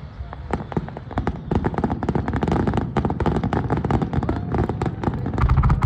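Aerial fireworks finale: a dense, rapid crackle of many small bursts, thickening about a second and a half in, with deeper booms near the end.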